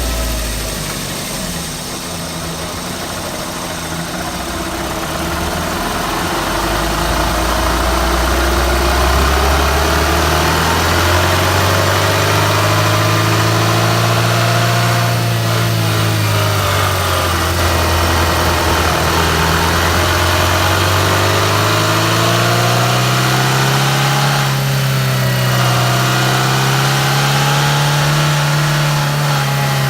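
Suzuki Swift 1.3-litre engine heard from under the bonnet while the car is driven: it idles low at first, then the revs climb twice under acceleration, easing off in between.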